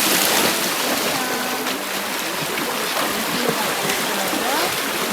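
Mountain valley stream flowing over rocks: a steady rush and babble of water.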